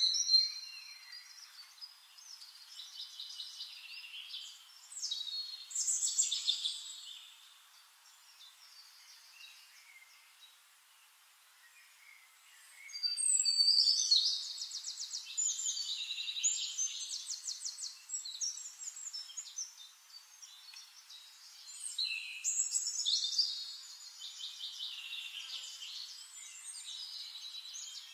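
Songbirds singing in bursts of high chirps and rapid trills, with a lull of a few seconds about a third of the way in.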